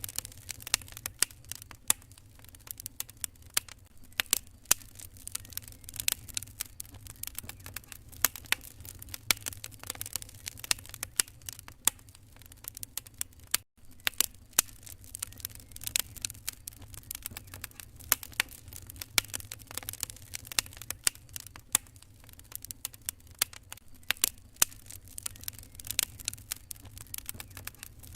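Wood fire crackling in a fireplace: dense, irregular pops and snaps over a steady low rumble of the flames, with a momentary dropout about halfway through.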